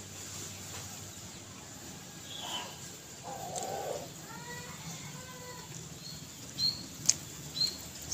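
Birds calling: a longer arched call midway, then several short high chirps near the end.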